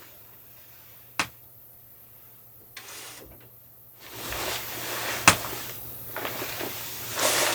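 A sharp click about a second in, then from about four seconds in a stretch of rustling handling noise with another sharp click, over a faint steady low hum.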